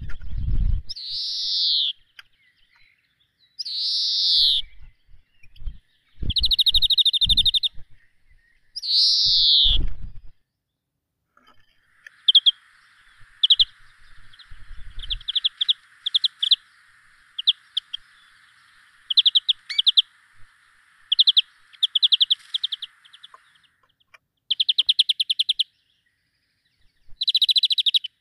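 Small birds calling: loud downward-sweeping calls about a second long in the first ten seconds, then a run of short chirps and buzzy, rapidly pulsed notes. A faint steady hiss sits under the chirps through the middle, and a few low thumps come early on.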